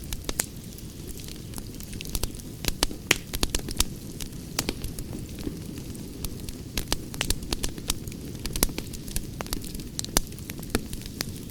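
Campfire burning with a steady low rumble and frequent sharp, irregular crackles and pops of burning wood.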